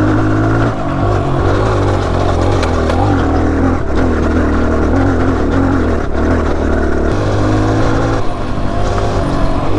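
Dirt bike engine running while riding, its revs rising and falling as the throttle is worked, with dips about a second in and after seven seconds.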